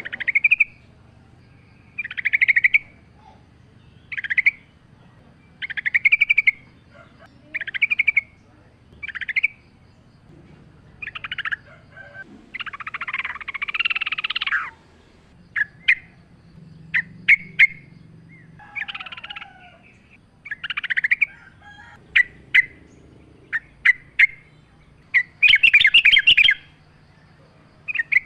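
Yellow-vented bulbul (trucukan) singing: short bubbly phrases repeated every second or two, one longer, fuller phrase about halfway through, and a run of sharp short notes after it.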